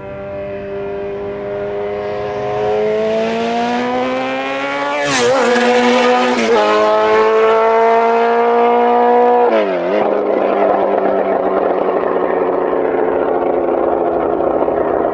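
Suzuki Hayabusa with a full VooDoo 4-into-1 exhaust, baffle removed, accelerating hard and getting louder. Its pitch climbs through the gears with quick upshifts about five and six and a half seconds in. Near ten seconds the note falls sharply and turns into a loud, rough, raspy running sound.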